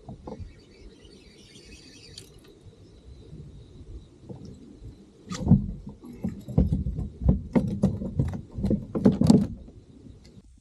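A run of irregular knocks and rattles of gear being handled on a fishing kayak, starting about halfway in and lasting about four seconds.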